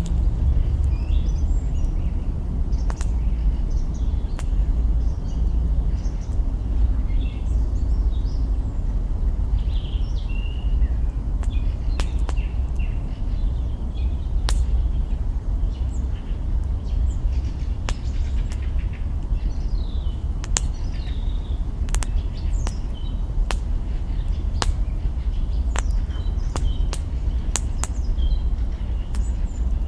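Campfire crackling, with branches in the fire giving many sharp pops, spread unevenly and coming more often in the second half. Small birds chirp in short calls throughout, over a steady low rumble.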